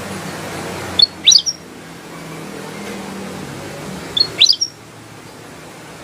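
Kutilang emas bulbul calling: two short phrases of quick, clear notes about three seconds apart, over a steady low hum.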